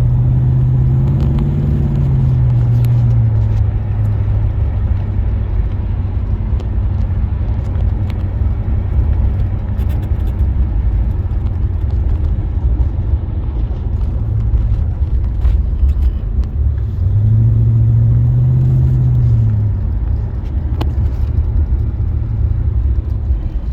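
1976 Oldsmobile Cutlass Salon with its 455 Rocket V8 driving along, engine running under a steady low rumble of road noise. The engine note rises and falls twice, near the start and again about two-thirds of the way through.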